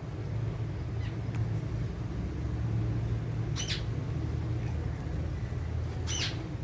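Alexandrine parrot giving two short, high calls about two and a half seconds apart, over a steady low background rumble.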